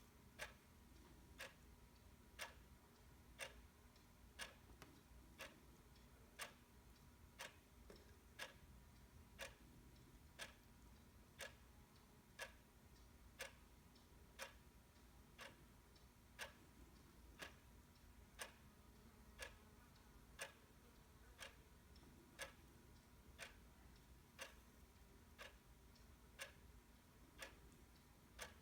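Faint ticking of a clock, one sharp tick every second, evenly spaced.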